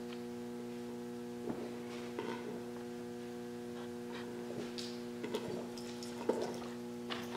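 Steady electrical hum with several pitches held together, broken by a few faint knocks and rustles of something being handled.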